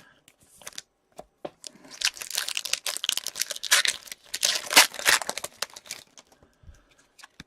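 Trading card pack wrapper crinkling and being torn open: a few light ticks, then about four seconds of dense crackling, then quieter handling near the end.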